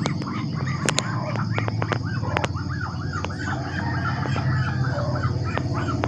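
Birds calling in a quick run of short, arched cheeps, about three or four a second, with a few sharp clicks and a steady low hum underneath.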